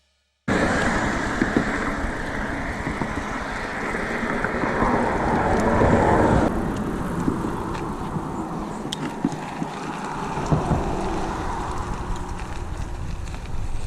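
Wind buffeting the microphone of a bicycle on the move, with rumble from the tyres on the trail. It starts suddenly half a second in, and the hiss eases about six and a half seconds in.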